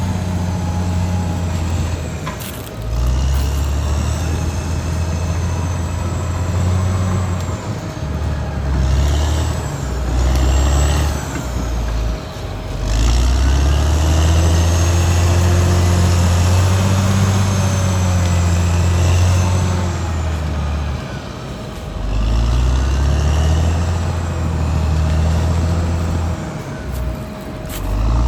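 Caterpillar D6R XL bulldozer's diesel engine running hard, its low note rising and falling with the load and changing abruptly several times. Thin high squeals rise and fall over it.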